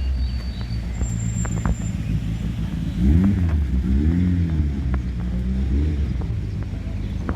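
Historic rally car engine running under a steady low rumble, its pitch rising and falling several times in the middle as it is revved through the gears.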